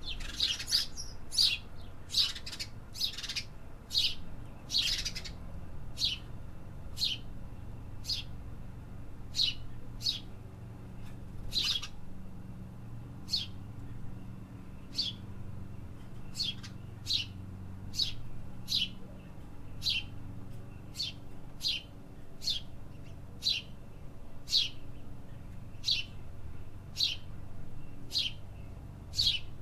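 A bird chirping: short, sharp chirps repeated about once a second, coming faster in the first few seconds, over a low steady background rumble.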